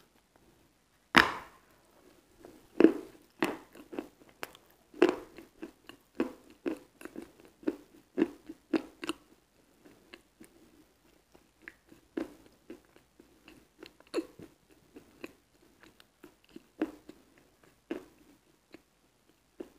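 Close-miked bites into a water-soaked lump of white chalk: a loud wet crunch about a second in and another near three seconds, then chewing with many small crunching clicks that thin out in the second half.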